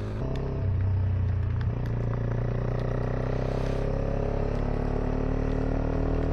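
Motorcycle engine running at low speed, its note rising briefly about a second in, then holding steady.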